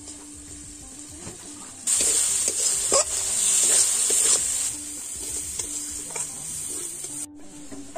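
Masala sizzling as it fries in a metal wok, with a spatula stirring and scraping against the pan. The sizzle and scraping are loudest from about two seconds in until nearly five seconds.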